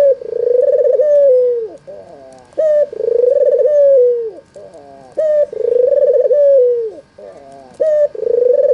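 Albino white Barbary dove (red-eyed puter) cooing over and over: each call is a short sharp note followed by a long rolling coo that drops away at the end, repeated about every two and a half seconds, four times.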